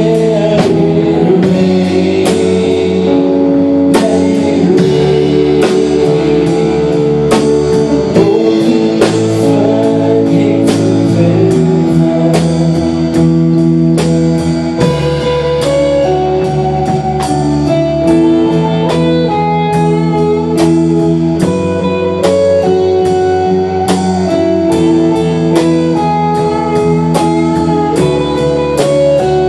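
Band playing an instrumental passage: guitar chords over a steady drum-kit beat, with no singing.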